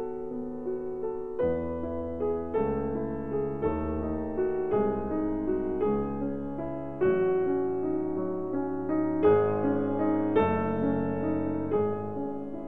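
Background piano music: sustained chords, a new one struck about once a second at a steady, gentle pace.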